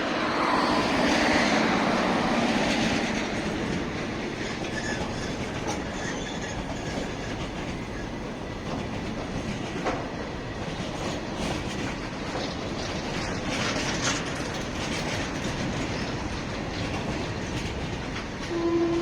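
Freight train rolling past, its wheels clattering over rail joints, loudest in the first few seconds and then steady. A short, steady tone sounds near the end.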